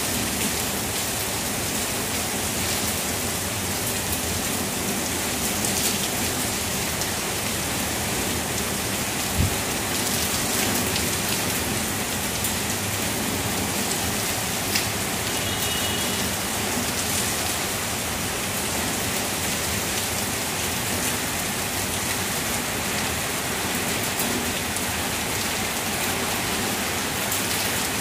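Heavy, steady rain falling through leafy trees, with scattered nearby drops ticking and one dull thump about nine seconds in.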